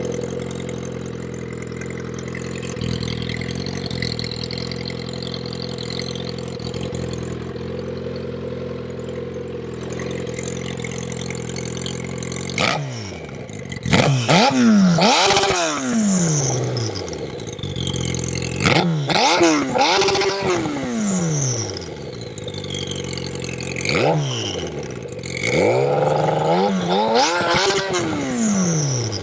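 Turbocharged Suzuki GSX-R1000 K4 inline-four engine idling steadily. From about 12 seconds in it is blipped in three bursts of quick revs, each rise and fall followed by a high whistle that falls away.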